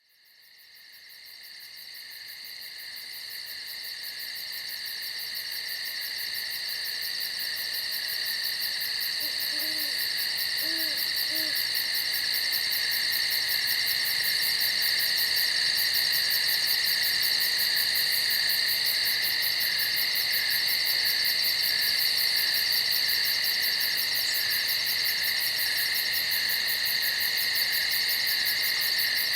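A dense, steady chorus of night insects, several high shrill tones at once, swelling in from silence over the first several seconds and then holding. A few soft, low owl hoots come about ten seconds in.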